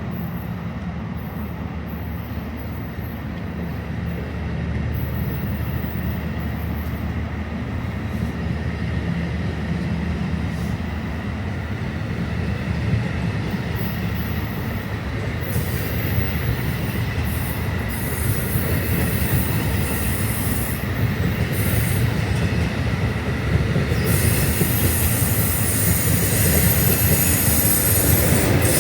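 Passenger train rolling by: steady rumble of steel wheels on the rails, with a faint high wheel squeal, growing louder toward the end.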